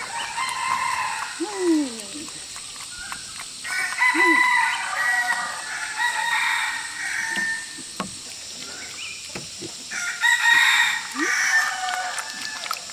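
Roosters crowing, about four long calls, with short lower calls from other farm animals between them.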